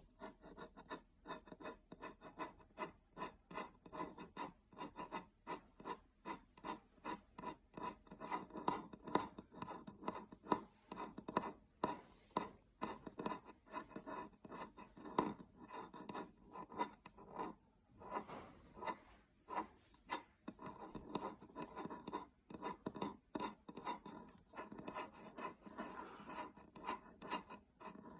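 Fingernails scratching and rubbing on a surface in short repeated strokes, about two a second, with a brief pause partway through.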